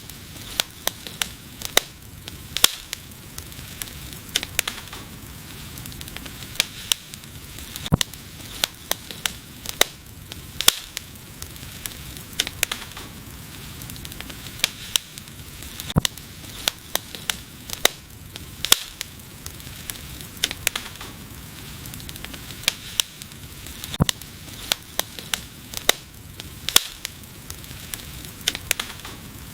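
Wood fire burning, with irregular sharp crackles and pops several times a second over a steady hiss of the flames.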